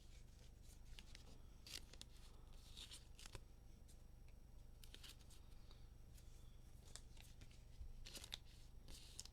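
Faint rustling and flicking of football trading cards being handled and slid one behind another, a few soft scattered clicks, over a steady low hum.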